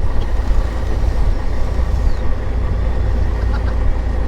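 Fishing boat's engine running steadily: a continuous low rumble under wind and sea noise.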